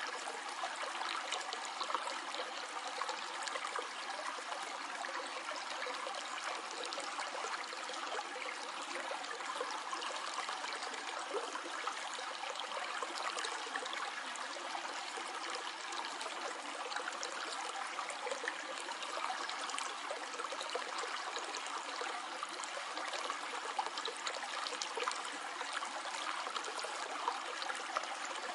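A shallow stream flowing steadily, water trickling and splashing over stones.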